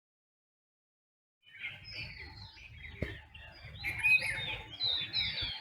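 Dawn chorus of several songbirds, many overlapping short chirps and whistles. It starts abruptly about a second and a half in, after dead silence.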